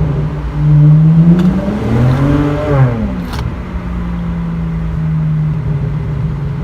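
BMW 335i turbocharged inline-six with a muffler delete (straight pipes in place of the mufflers) running at a steady note. About two seconds in it revs up, then falls back, with two sharp exhaust pops about two seconds apart, the second as it comes off the throttle. It then settles into a steady exhaust drone.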